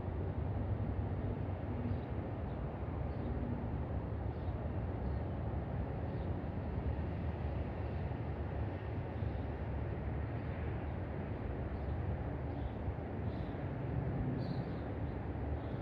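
Steady low rumbling background noise, with faint, short bird chirps now and then, a little clearer near the end.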